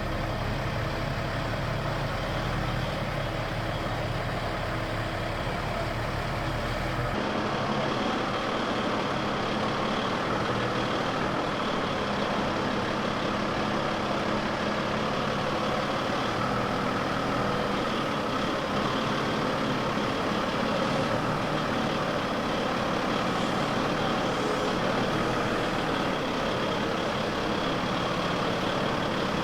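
Heavy diesel forklift engine running steadily under load. About seven seconds in the sound changes abruptly: the deep engine note gives way to a higher, busier mechanical sound.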